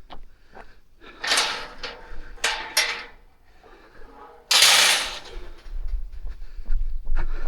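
A jogger's heavy breathing: several loud, rushing breaths, with light regular footfalls. A low wind rumble on the microphone sets in about halfway.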